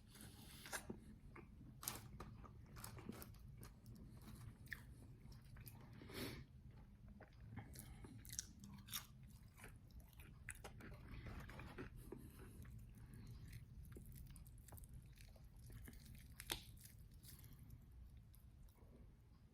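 Chewing and biting into crispy, extra-well-done chicken wings: irregular crunches and mouth clicks, faint, with no talking.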